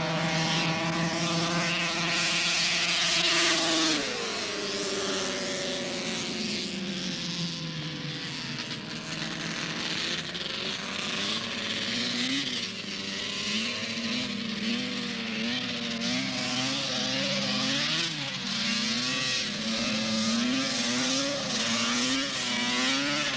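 Arctic Cat El Tigre two-stroke snowmobile engine held at a high, steady pitch, then the throttle comes off about four seconds in and the note falls away. From about halfway on it is revved in short rises and falls, roughly one every second and a half.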